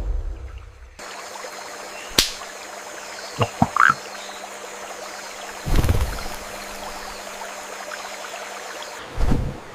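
Rainforest ambience: a steady hiss with a faint hum, broken by a sharp click about two seconds in, a few quick knocks and a short rising chirp near four seconds, and low thumps about six seconds in and again near the end.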